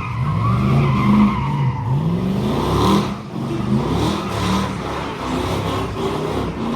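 Truck engine revving up and down again and again during a burnout, with tyres squealing.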